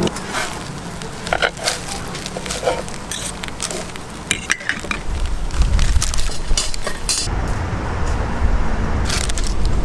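Kitchen clatter: scattered light clinks and knocks of utensils and dishes, then a steady low rumble from about five seconds in.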